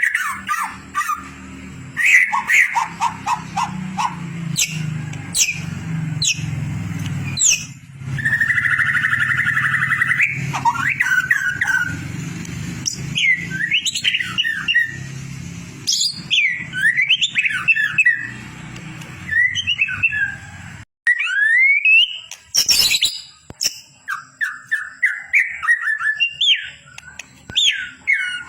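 White-rumped shama (murai batu) singing: a varied run of loud whistled phrases, sliding notes and rapid trills, as played for training songbirds. A low steady rumble lies beneath for most of the stretch and cuts off suddenly about two-thirds through.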